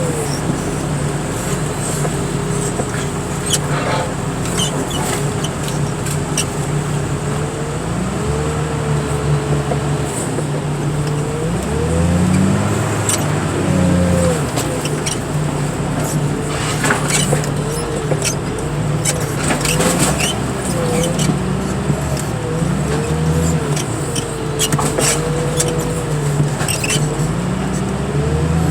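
Heavy diesel engine of a car crusher's loader running under load, its pitch rising and falling again and again as the hydraulics are worked, with scattered metal clanks and knocks.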